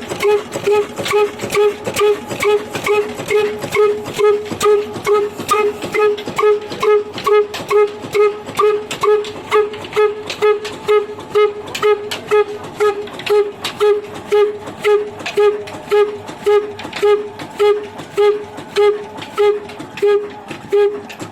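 22 HP slow-speed diesel oil engine running steadily under a stone wheat grinder, its exhaust beating evenly at about two firings a second.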